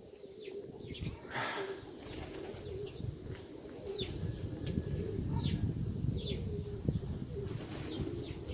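Nikolaev pigeons cooing, with flapping wings and short high chirps, over a low rumble of wind on the microphone.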